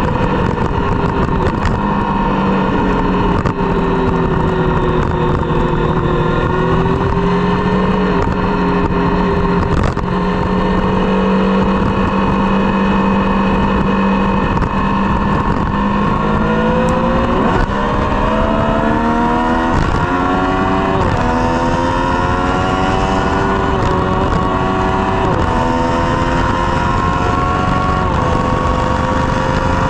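Triumph Street Triple's three-cylinder engine through a Dominator GP aftermarket exhaust, running at a fairly steady pitch for the first half. In the second half it revs up and shifts up repeatedly, each rise in pitch ending in a sudden drop at the gear change.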